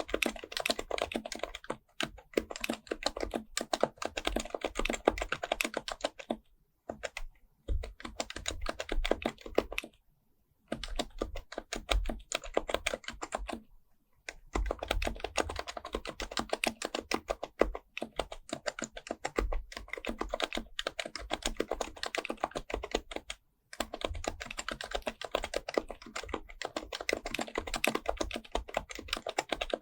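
Fast continuous typing on an HHKB Professional Type-S keyboard with Topre capacitive switches: dense runs of soft keystroke clacks, broken by a few short pauses.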